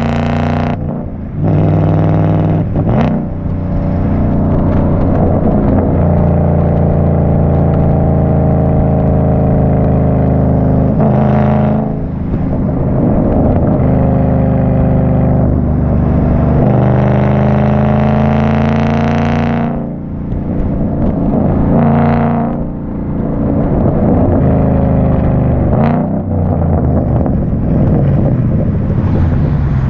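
2014 Mustang GT's 5.0 Coyote V8 running loud through an aftermarket performance exhaust while driving. Revs climb and fall repeatedly, with short dips several times, as at gear changes.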